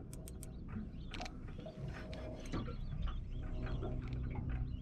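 Faint, scattered bird chirps, with a few small clicks and a low steady hum underneath.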